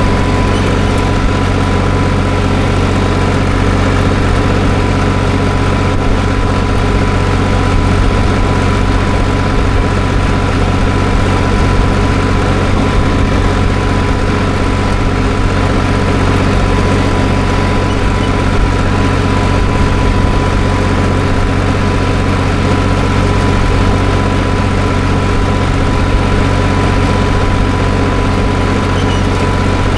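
Tractor engine running loud and steady as the tractor is driven, with an even drone that does not change.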